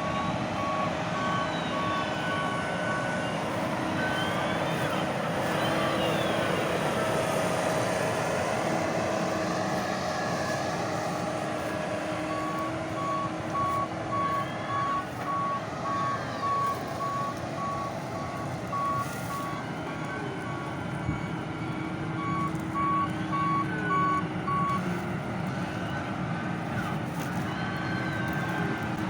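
Heavy farm machinery engine running steadily, with a reversing alarm beeping at an even rate: briefly at the start, then again from about twelve seconds in until about twenty-five seconds in.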